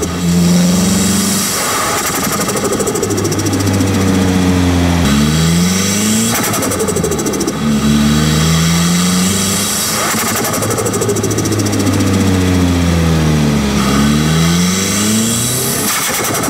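Turbocharged Nissan Silvia S15 SR20 engine heard at the turbo intake under driving, its revs rising and falling several times through acceleration and lift-off. A rapid turbo flutter chatters as the throttle closes, about seven seconds in and again near the end.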